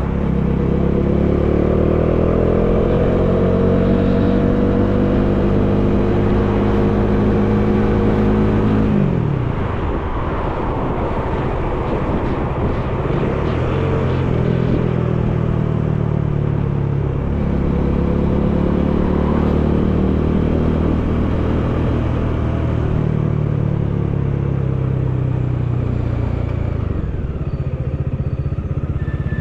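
Bajaj Dominar 400's single-cylinder engine pulling as the motorcycle accelerates, its pitch climbing slowly for about nine seconds and then dropping off, with wind rushing past. After a stretch of mostly wind, the engine pulls and climbs again, falling away near the end.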